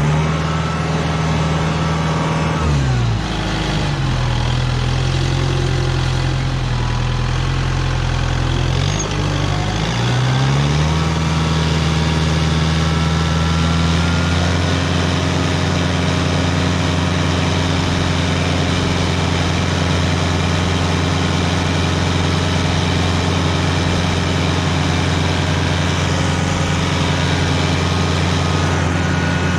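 65-horsepower Kubota tractor's diesel engine running while plowing snow. Its engine speed drops about three seconds in, rises again about ten seconds in, and then holds steady.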